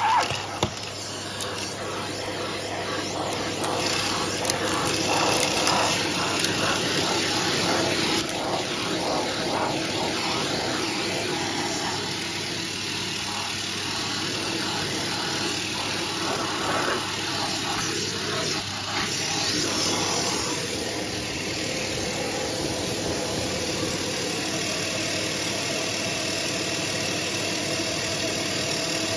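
Vacuum cleaner running steadily, sucking up scattered dry mess, with intermittent crackles and clicks in the first half as debris is pulled into the nozzle.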